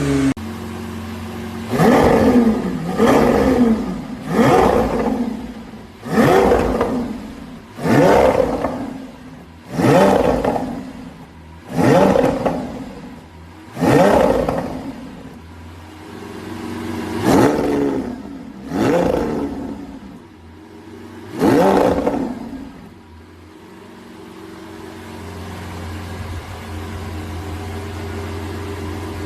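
Supercar engine revved hard while standing still: about eleven sharp blips of the throttle, each rising quickly and falling back. From about 23 s on it settles to a steady idle.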